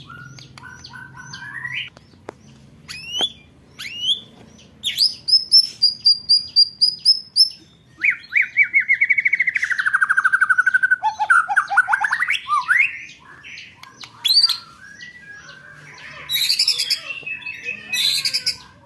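Songbird singing a varied competition song: scattered chirps, then a fast run of high repeated notes about five seconds in, a long trill sliding downward, a rising trill, and dense harsher notes near the end.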